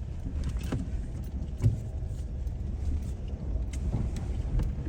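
Four-wheel drive travelling on a rough dirt track, heard from inside: a steady low rumble with scattered knocks and rattles, the loudest about one and a half seconds in.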